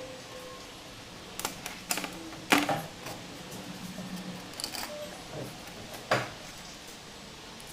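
A few sharp clicks and knocks of small hard parts being handled and set down, the loudest about two and a half seconds in and another about six seconds in.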